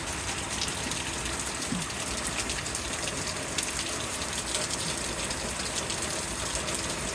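Heavy rain pouring down in a steady, even rush of water.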